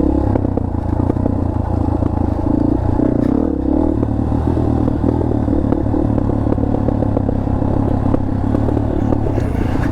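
Dirt bike engine running at low revs on a rocky downhill, with the bike clattering over rocks. The engine note dips briefly a few seconds in.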